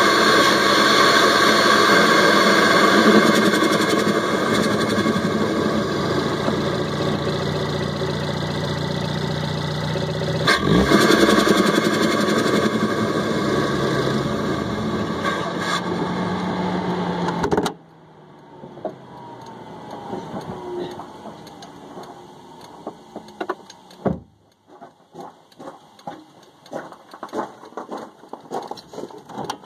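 Ford Focus ST Mk3's turbocharged 2.0 EcoBoost four-cylinder heard from inside its air box: intake and turbo noise of the running engine, rising briefly about ten seconds in. A little past halfway the engine sound cuts off suddenly, leaving faint clicks and knocks.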